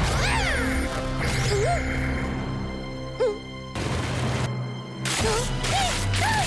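Cartoon background music with squeaky, swooping character sound effects, a sharp click about three seconds in, and two short bursts of noise in the second half.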